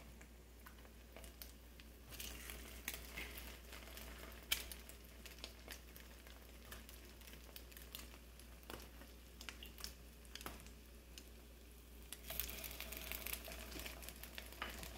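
Bread slices frying in butter and coconut oil in a hot skillet, a faint sizzle with small pops and crackles, a little louder about two seconds in and again near the end. One sharper tick about four and a half seconds in.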